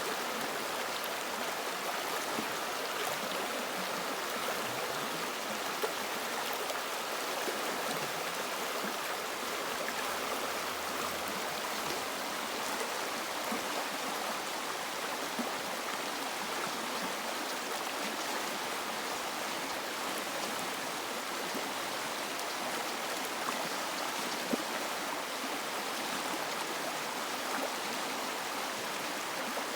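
River water flowing over rocks, a steady rushing and babbling with small splashes.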